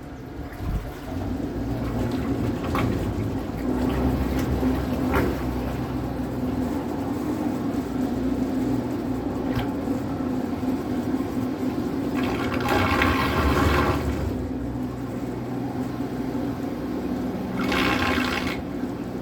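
Water rushing and splashing along the hull of an electric trimaran under way, over a steady low hum. Two louder stretches of splashing come past the middle and near the end.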